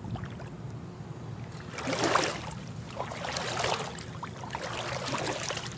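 Feet wading through shallow creek water, with louder sloshing splashes about two seconds in and again a second or so later.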